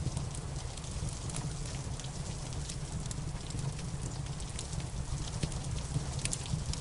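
Steady rain mixed with a crackling wood fire: scattered sharp pops and snaps over an even hiss of rain, with a steady low rumble underneath.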